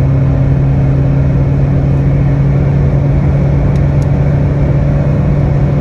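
Seat Leon Mk3 1.6 TDI diesel car running at speed, a steady engine drone at constant revs with heavy road and wind noise.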